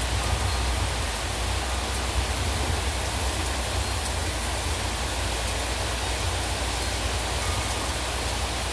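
Heavy rain falling steadily, with a steady low rumble of gusting wind.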